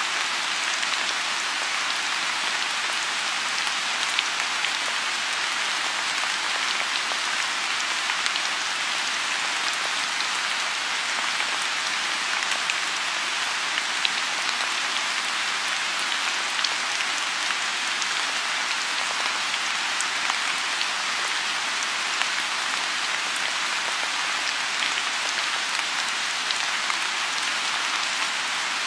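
Steady rain falling on a lotus pond: an even hiss with scattered sharper taps of single drops.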